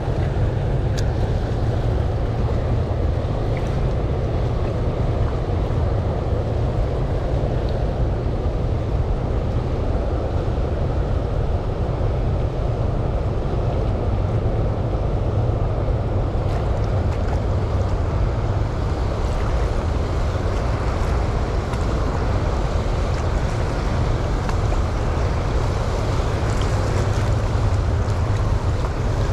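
Steady rushing of water and waves, mixed with wind buffeting the microphone, heaviest in the deep low end and unbroken throughout.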